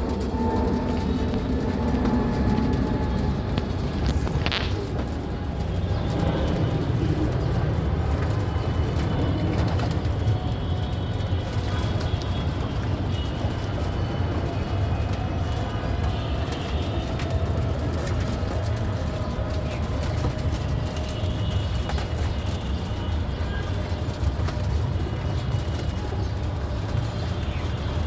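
A steady low rumble throughout, with pigeons cooing faintly over it.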